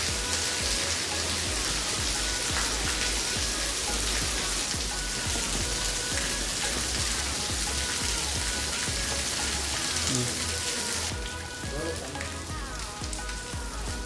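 Steady hiss of heavy rain falling, with background music carrying a melody and a bass line underneath. The rain thins out about eleven seconds in while the music goes on.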